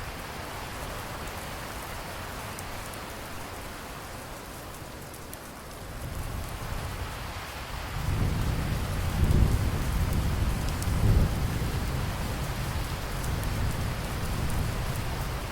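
Steady rain falling, with a low roll of thunder that builds about six seconds in, rumbles to two peaks, then fades back under the rain.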